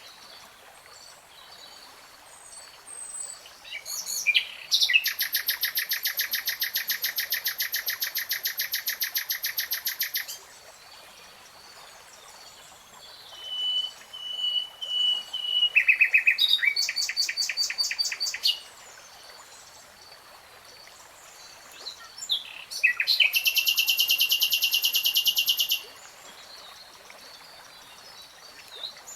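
A songbird singing in separate phrases: long, very rapid trills lasting several seconds each, three in all, with a short steady whistled note between the first two and quiet pauses in between.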